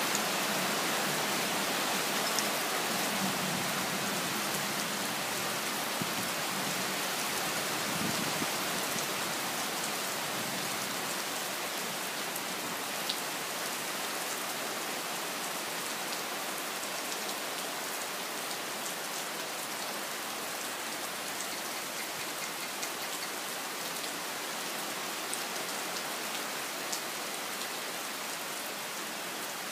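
Rain falling steadily, an even hiss with scattered sharp drop ticks, fading a little toward the end.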